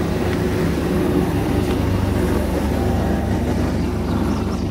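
An engine running steadily with a low, even hum, without any change in speed.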